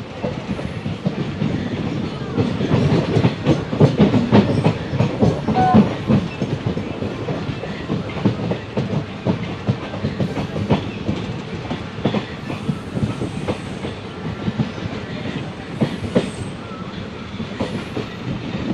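A train running past, its wheels clattering irregularly over rail joints above a steady rumble. It is loudest a few seconds in and then carries on a little lower.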